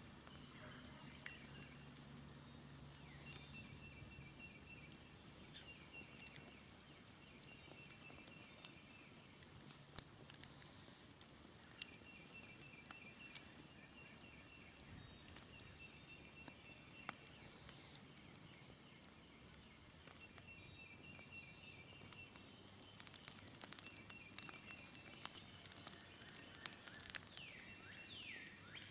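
Smoldering campfire crackling faintly with scattered small pops, one sharper pop about ten seconds in. Behind it, a short high trilling call repeats every few seconds, and a few quick falling chirps come near the end.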